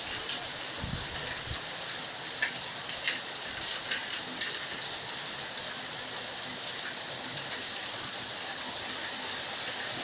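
Steady rainfall with scattered sharper drop ticks, most of them in the first half.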